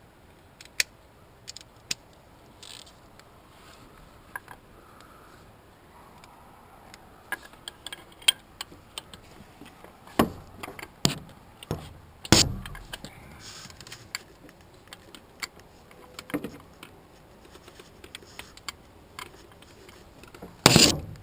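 Metal hand tools, a socket wrench and extension, clinking and knocking against metal on an engine: scattered light clicks, with a few louder knocks about ten and twelve seconds in and a loud clatter near the end.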